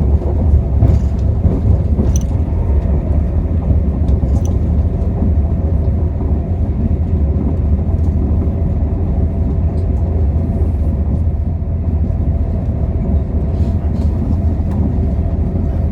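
Running noise of a passenger train heard from inside the carriage: a steady low rumble with a few faint clicks.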